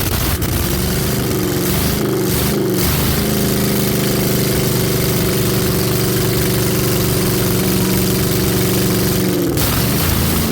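Freshly rebuilt small block Chevy V8 running loud on an engine test stand: its speed wavers for the first few seconds, then is held steady at a raised speed for about six seconds and drops back near the end.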